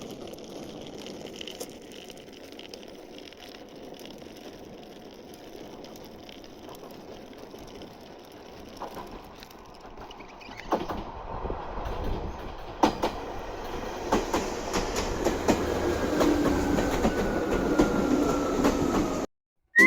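Train running on rails, growing louder about halfway through, with clacking and a faint high squeal falling in pitch near the end.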